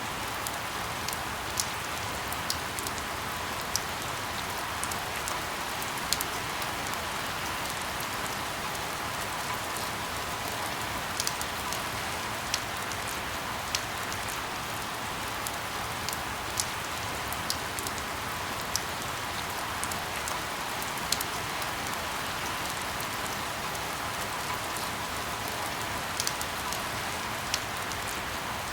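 Steady rain falling, with individual drops ticking sharply at irregular moments over the even hiss.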